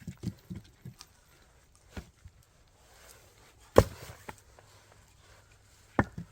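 Firewood being split with an axe: a few low knocks, then a sharp loud strike about four seconds in and another near the end.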